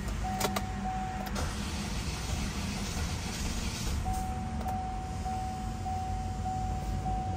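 Starter cranking a freshly reinstalled Chevrolet Cruze engine from cold, turning steadily without firing: a hard start after the engine rebuild. A car's warning chime beeps repeatedly for about a second near the start and again from about four seconds in.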